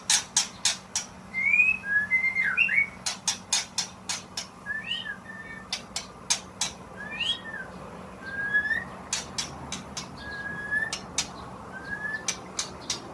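White-rumped shama calling: short, clear whistled notes that rise and fall, given one or two at a time, mixed with many sharp clicking notes. It is a lure call, used to draw in other shamas.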